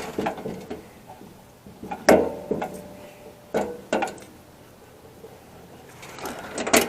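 Sharp metallic clicks and clanks from hand tools and metal parts during a server rack teardown, a few seconds apart. One clank about two seconds in rings briefly.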